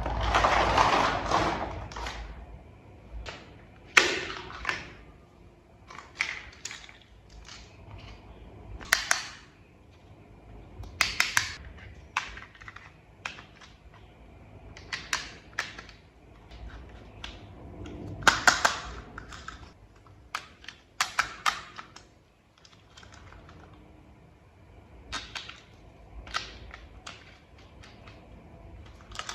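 Small plastic toy-truck parts handled and snapped together, in irregular clusters of sharp clicks with quieter handling noise between them. A longer rustling scrape comes at the start.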